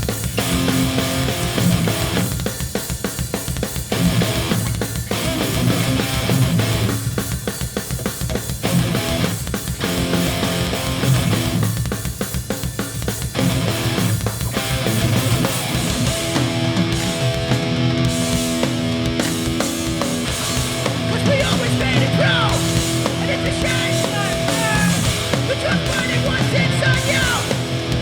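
Hardcore punk band playing live with distorted electric guitars, bass and drums, with no vocals. The first half is choppy, with short breaks in the guitars. From about halfway, held guitar chords ring over the drums.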